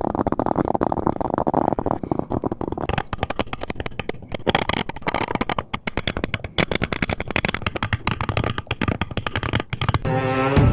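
Hand carving tool cutting and scraping at a carving, a dense run of quick scrapes and clicks. Bowed-string music starts near the end.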